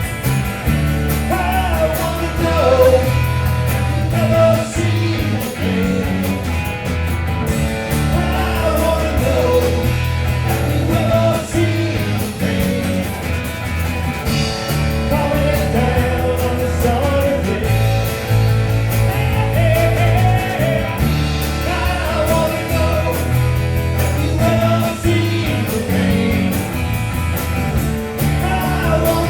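Rock band playing with bass, guitars and a wavering lead melody line over a steady beat.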